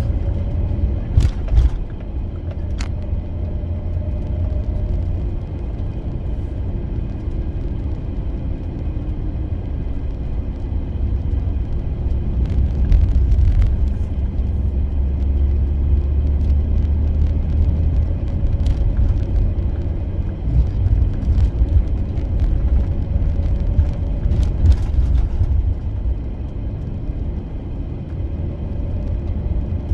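Van driving on the road, heard from inside the cabin: a steady low rumble of engine and tyres, with a few brief clicks and knocks.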